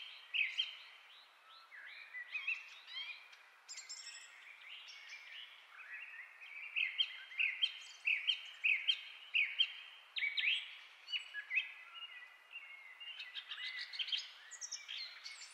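Birds chirping and singing in quick, overlapping high-pitched phrases and trills, a continuous background of birdsong.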